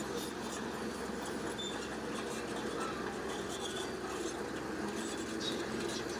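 Heavy earth-moving machinery running steadily: a dense, even mechanical noise with scattered faint clicks.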